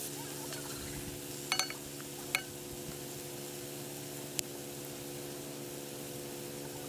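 A pot of sausage, tomato and pepper cooking over campfire embers with a faint sizzle, a steady low hum underneath, and a few light clicks about one and a half, two and a half and four and a half seconds in.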